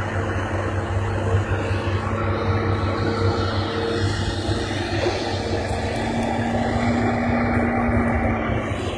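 Heavy diesel machinery, an excavator and dump trucks, running steadily with a low engine hum. A steady whine in it drops to a lower tone about six seconds in.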